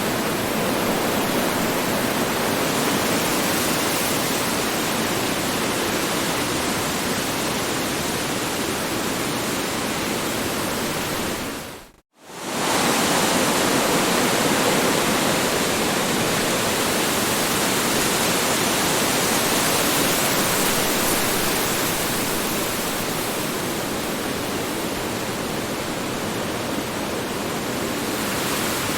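Strong wind blowing in a steady, dense rush. About twelve seconds in it cuts out to near silence for a moment and swells straight back.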